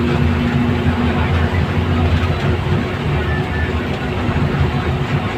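A large vehicle engine running steadily, a low hum over a constant noisy rush.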